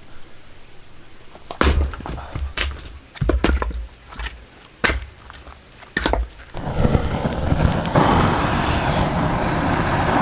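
Axe blows on firewood: a run of sharp, heavy thuds with splintering cracks, a few to a second or so apart. From about six and a half seconds in, a steady rushing noise takes over.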